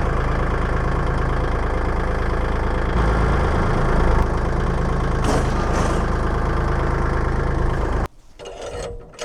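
An engine running steadily with a deep, even rumble, swelling slightly about three to four seconds in, then stopping abruptly about eight seconds in.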